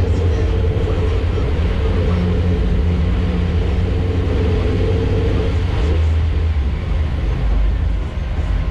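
A car engine running at steady revs, a loud low rumble with a held tone that shifts a little over five seconds in.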